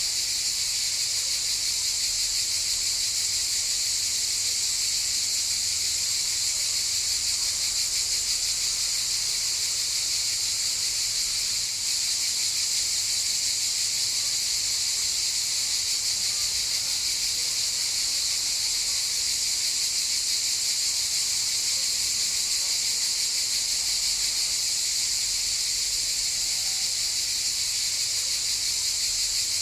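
Cicadas chorusing: a steady, unbroken high-pitched buzz.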